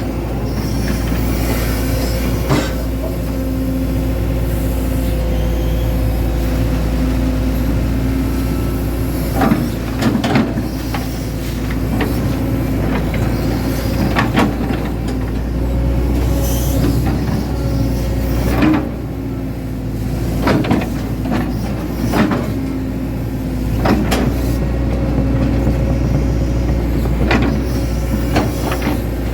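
Hitachi Zaxis 110 excavator's diesel engine running steadily as the machine digs, with scattered knocks and clanks throughout.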